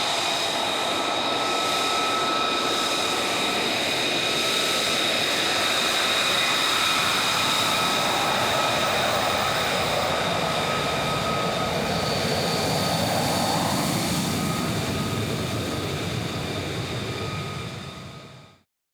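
F-35A Lightning II's jet engine running steadily: a broad roar with a high whine on top. The sound fades out sharply near the end.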